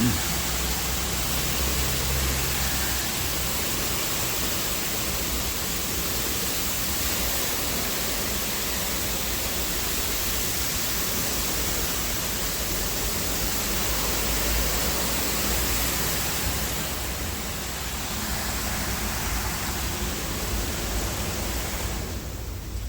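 Automatic car wash spraying water over a car: a steady rushing hiss of water jets with the low hum of the wash machinery underneath, easing slightly near the end.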